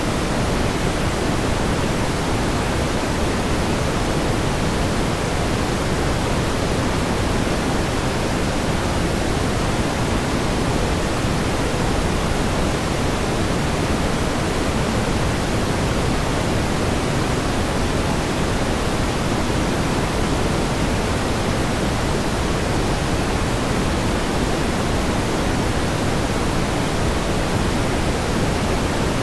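Steady pink noise: an even, unchanging hiss weighted toward the low end, with no swells or breaks.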